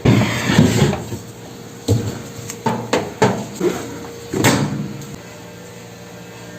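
Clatter and knocks from handling a microwave during cleaning: a sudden loud clatter at the start, then about six separate lighter knocks over the next few seconds, like a door or panel being opened and shut, over a faint steady hum.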